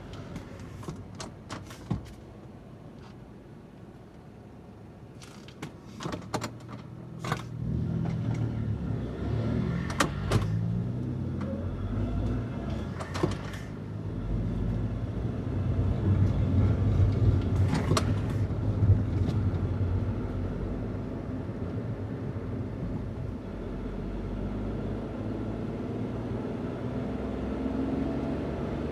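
Daihatsu Hijet kei van's small three-cylinder engine, stock intake and exhaust, running quietly at first, then accelerating with its pitch climbing and falling through the gears, and settling into a steady cruise. A few sharp clicks and knocks sound in the first half.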